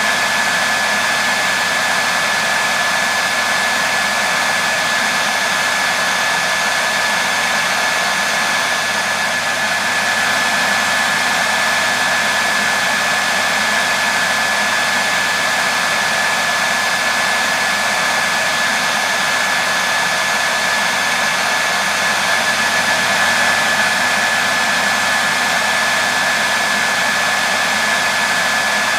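Hair dryer running steadily: an even rush of air with a steady motor whine.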